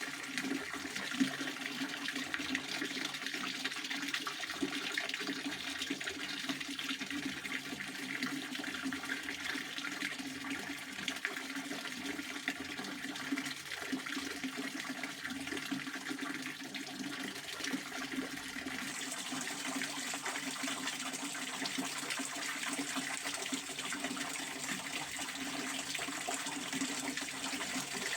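Pond water fountain splashing steadily: a continuous rush of falling water.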